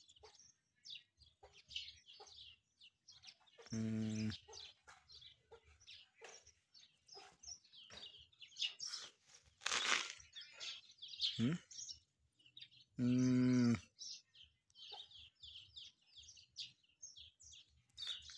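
Small birds chirping steadily, with two short, low, even hums a few seconds in and again about two-thirds of the way through, the loudest sounds here.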